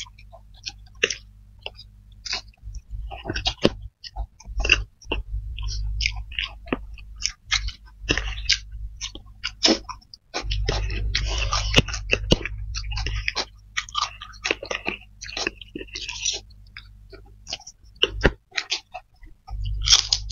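Close-miked chewing of spicy fried flat rice noodles (kway teow) by two people, with many wet mouth clicks and smacks. A low rumble comes and goes.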